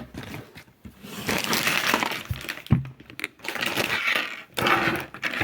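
Box packaging being opened by hand: several bursts of rustling and ripping, with a sharp click a little past the middle.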